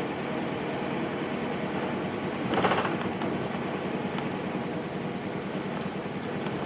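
Nissan Diesel Space Runner RM (KC-RM211) bus with its FE6 inline-six diesel running steadily, heard from inside the cabin. A short hiss comes about two and a half seconds in.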